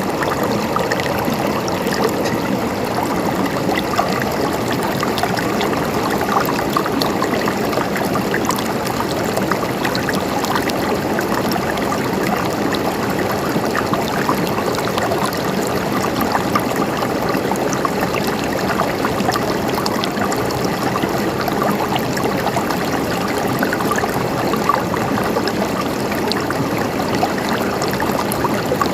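A river or stream flowing steadily over stones, with a constant rush and fine splashes and trickles throughout.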